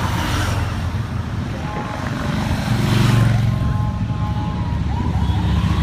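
A stream of motorcycles riding past, their engines swelling as each passes, loudest about three seconds in.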